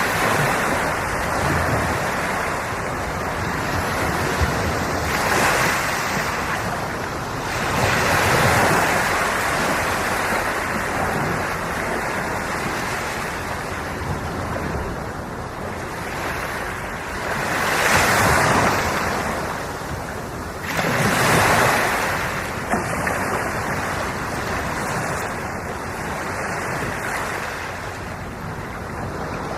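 Sea waves washing in and out on the shore, a continuous rush that swells and falls back, with the loudest surges about 18 and 21 seconds in.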